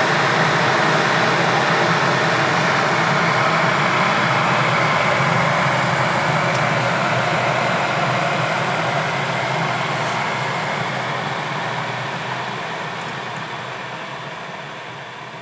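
Bosch TWK86103GB 3 kW electric jug kettle heating water, a steady rushing hiss and rumble. The sound fades away gradually over the last several seconds as the water reaches the set 70 degrees and the element stops.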